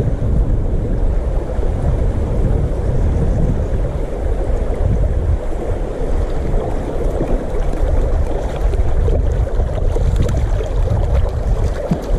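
Steady low rumbling noise of wind buffeting a GoPro's microphone, with the flow of a small river beneath it.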